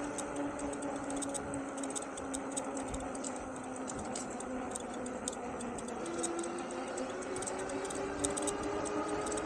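Electric bike hub motor whining under way, a steady tone that sags slightly in pitch. About six seconds in, a second whine starts and rises as the bike picks up speed. Light, irregular ticking runs along with it.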